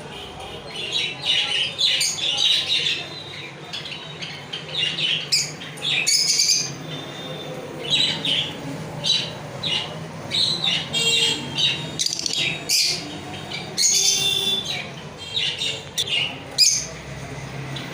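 Lovebirds chattering: a busy stream of short, shrill squawks and chirps that overlap, with barely a pause.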